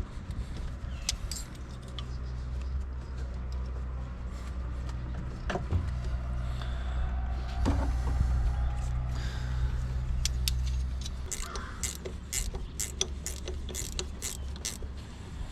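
Metal tools clicking and clinking while a tractor battery is being worked loose, ending in a run of sharp clicks about three a second, over a low steady hum that fades about two-thirds of the way in.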